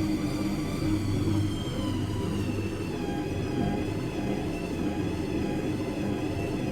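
Washing machine running: a steady low motor hum with a higher whine that slowly wavers up and down in pitch.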